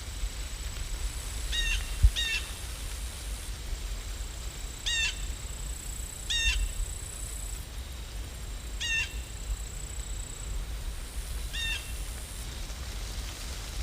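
A bird giving six short calls at irregular intervals, over a low steady rumble.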